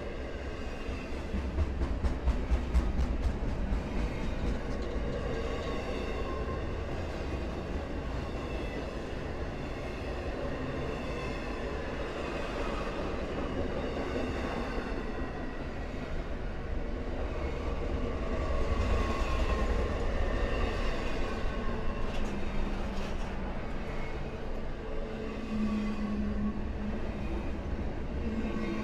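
Freight train rolling past with a steady low rumble, its wheels clicking over the rail joints in a quick run a couple of seconds in. A low steady hum comes in near the end.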